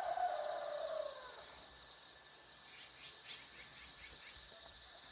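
Rooster crowing, the long final note of the crow falling in pitch and dying away about a second in. After it, faint chirping insects over a steady high insect drone.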